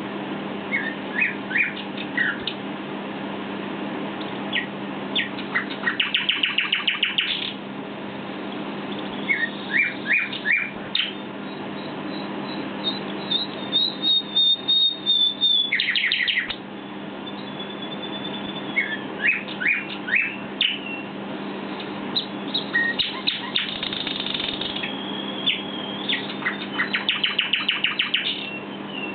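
Common nightingale singing: several phrases of rapid repeated notes and trills mixed with long high whistles, separated by short pauses. A steady low hum runs underneath.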